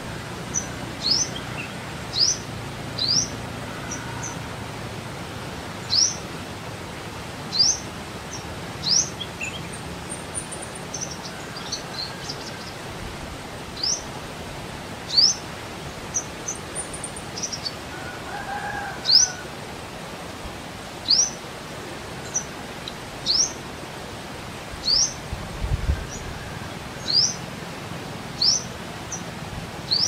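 A small bird repeating a short, high chirp that rises quickly in pitch, every one to three seconds, over a steady outdoor hiss.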